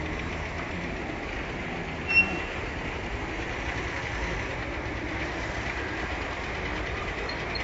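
Small motorcycle engine running steadily with a low rumble. A short, high squeak sounds about two seconds in.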